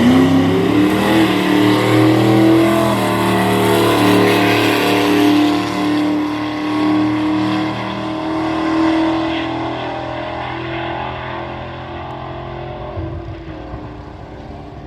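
Drag-racing car launching off the start line at full throttle, its engine note climbing and held high, then fading away as the car runs down the strip.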